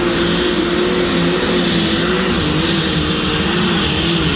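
Pulling tractor's engine running loudly and steadily, its pitch wavering slightly, with a thin high whine over it.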